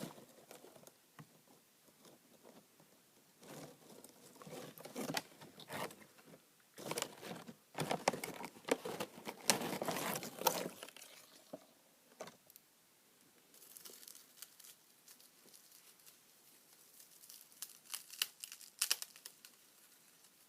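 Irregular bursts of crinkling and crunching from crisp wasabi-flavoured roasted seaweed snack sheets being broken up and eaten, with quiet gaps between the bursts.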